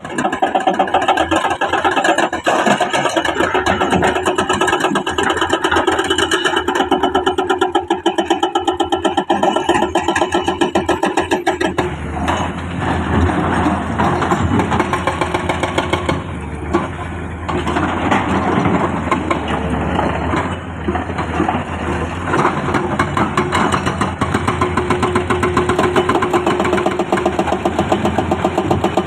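Heavy earth-moving machinery's engine running with a rapid, even beat. Partway through the sound turns rougher and noisier, and near the end the even beat returns.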